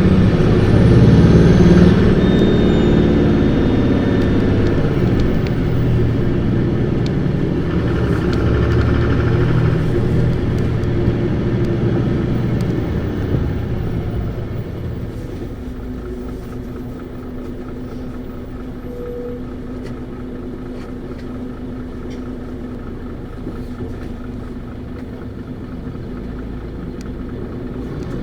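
Isuzu Erga PKG-LV234Q2 city bus's diesel engine running hard under load, revved high. About halfway through the engine note drops and the bus runs on more quietly and steadily.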